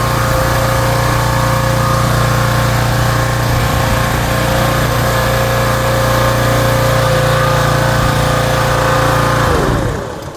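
A small engine or motor-driven machine running steadily at constant speed, then shut off near the end and winding down.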